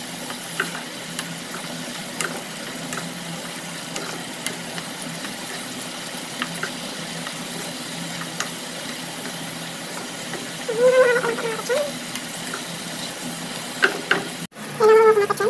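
Chicken pieces sizzling steadily in a non-stick frying pan, stirred with a wooden spatula that knocks and scrapes against the pan now and then. A brief voice-like sound comes about eleven seconds in, and the sound cuts off abruptly near the end.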